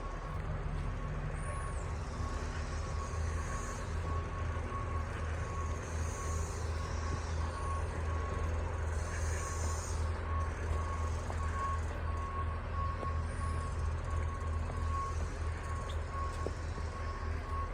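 Work vehicle's back-up alarm beeping in a steady, even rhythm over the low, steady rumble of its engine.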